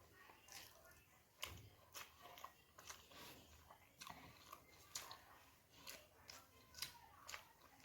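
Close-miked chewing and mouth sounds of a person eating: irregular soft crunches and smacks, one or two a second.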